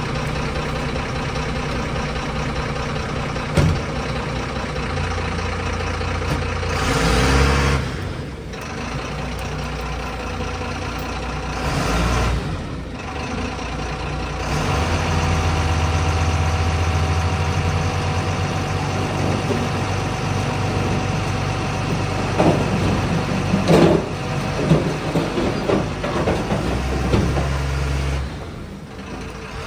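Diesel engine of heavy equipment running, its speed rising and falling, with a sharp knock a few seconds in and a run of clanks and knocks near the end.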